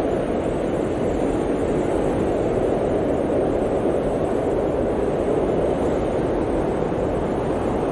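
Blizzard wind blowing in a steady, deep rush, with no gusts or breaks.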